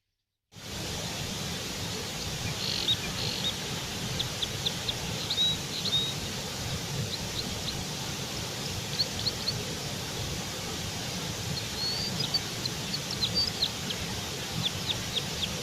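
Birds chirping in short, high, scattered notes over a steady hiss of outdoor background noise, which cuts in suddenly about half a second in.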